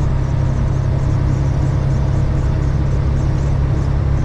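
Cat 3406E diesel of a Freightliner FLD120 semi truck running at a steady cruise, with road noise, heard from inside the cab as a constant low drone.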